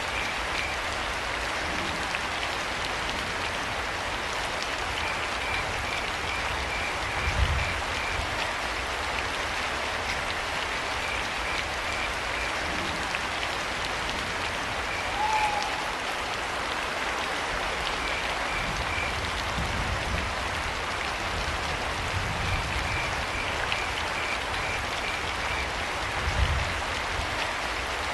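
Steady rainfall with crickets chirping in short repeated trains over it. Midway a single short call with a slight downward bend is heard, and twice there is a brief low thump.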